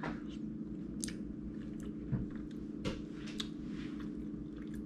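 Close-up chewing of a mouthful of soft shredded beef in barbecue sauce, with a scattering of short mouth clicks and smacks over a steady low hum.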